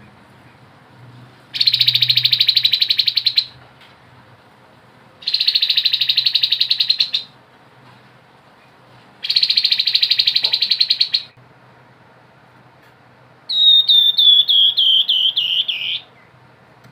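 Grey-headed babbler singing: three fast buzzy trills of about two seconds each, a couple of seconds apart, then a run of about eight quick whistled notes stepping down in pitch.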